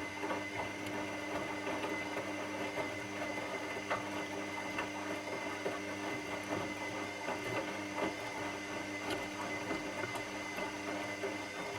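Washing machine running: a steady motor hum with a constant whine, and occasional light clicks and taps.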